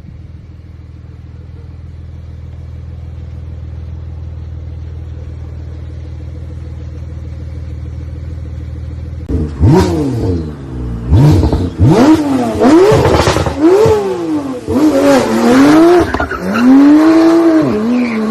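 A sports car engine idling low and steady for about nine seconds, then revved hard over and over, its pitch climbing and dropping with each blip. It ends on a longer, steadier run.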